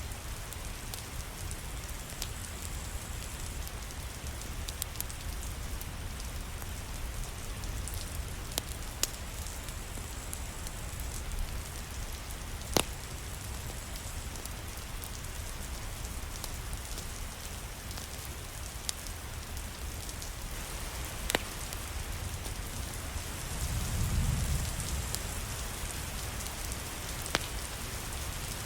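Steady rain falling on a surface, with a few sharp single clicks and one brief low rumble swelling and fading near the end.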